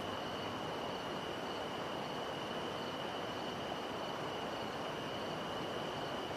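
Steady rainforest ambience: an even, rushing noise like running water, with a continuous high-pitched whine held through it.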